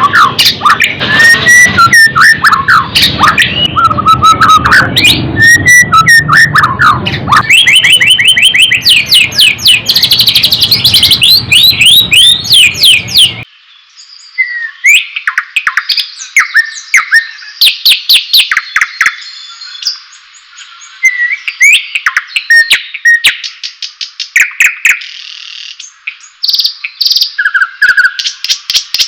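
White-rumped shama (murai batu) singing: loud, varied whistled phrases mixed with rapid chattering trills. About halfway through, the background hiss drops out suddenly as a cleaner recording of the song takes over.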